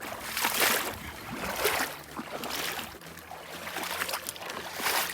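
Footsteps wading through shallow water, a splash and slosh with each stride, about one a second.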